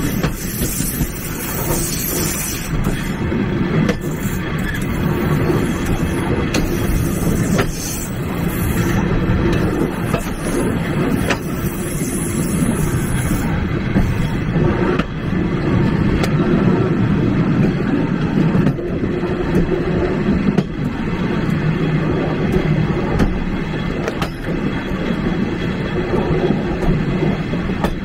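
Railway passenger carriage rolling along the track, with a steady rumble and irregular sharp clacks of the wheels over rail joints. A high hiss over the first half fades out around the middle.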